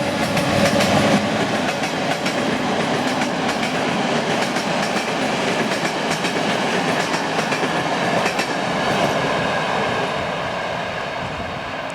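A train passing along the track, its wheels clicking over the rail joints. The sound eases off a little after about nine seconds.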